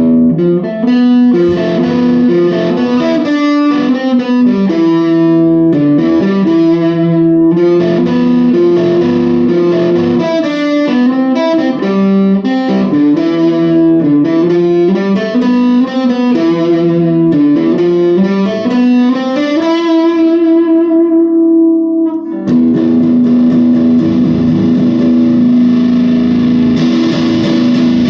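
Electric guitar on its bridge humbucker, distorted through a TC Electronic Grand Magus pedal into a Blackstar Debut 50R amp, playing a riff of moving single notes. The riff ends on a held note that fades out, and a ringing distorted chord is struck about three-quarters of the way through.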